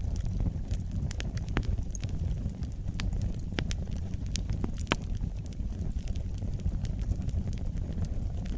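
Wood fire burning in a fireplace: a steady low rumble of flames with scattered sharp crackles and pops, the loudest of them clustered about three to five seconds in.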